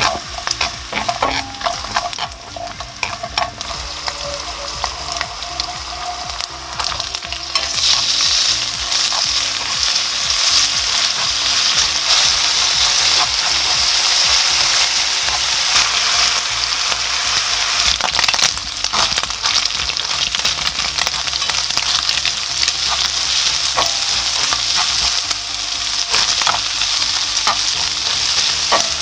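Sliced garlic and bacon sizzling in olive oil in a stainless steel frying pan as they are stir-fried on medium-low heat. The sizzle grows louder about eight seconds in and stays up, with a few short clicks as the food is stirred.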